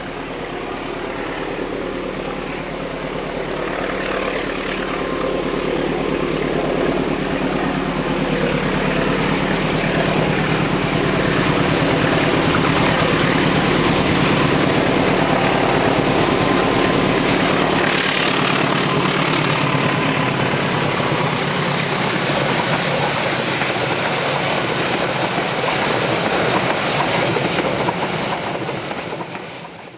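Diesel locomotive-hauled train passing: a steady engine drone at first, then the noise of the carriages rolling by builds and holds loud through the middle, and the sound cuts off abruptly near the end.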